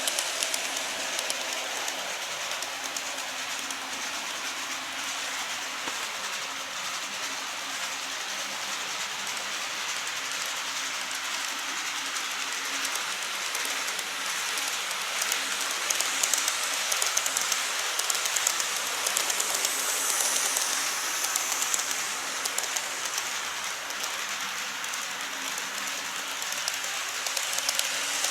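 Model train running along the track: a steady motor hum with dense rapid clicking of the wheels over the rails, growing louder a little past the middle as the train draws closer.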